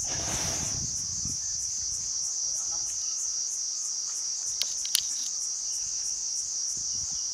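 Insects shrilling in a steady high-pitched chorus that pulses about three times a second, with two sharp clicks about five seconds in.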